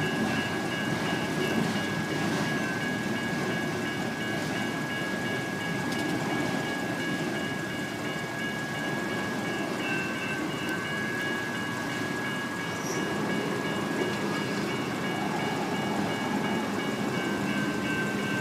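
A BNSF autorack freight train's cars rolling steadily past over the rails, with the grade crossing's General Signals electronic bells ringing high and steady above the rumble.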